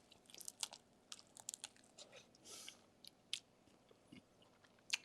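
A person biting into and chewing a barbecue-sauced chicken wing: faint, wet smacking clicks scattered irregularly, with a short soft smear about two and a half seconds in.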